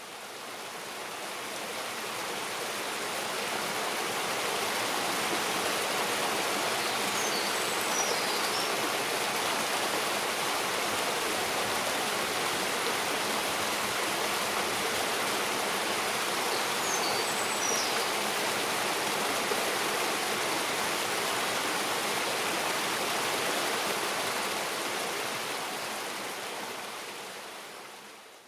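Rushing stream water, a steady full hiss that swells up at the start and fades out at the end. Faint high bird calls come through twice, about 7 and 17 seconds in.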